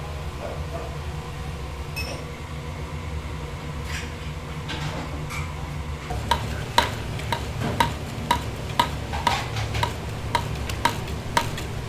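A steady low hum of kitchen equipment. From about halfway, metal utensils clink regularly against dishes or a pot, about two clinks a second, each with a short ring.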